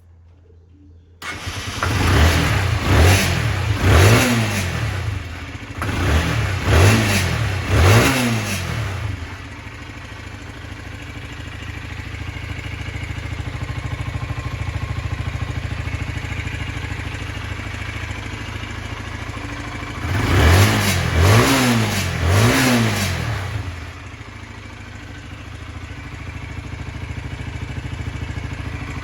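Honda CBR125's single-cylinder four-stroke engine starting about a second in, then blipped several times in quick succession and settling to a steady idle, with two or three more blips later on. It revs up cleanly, the sign of an engine in good running order.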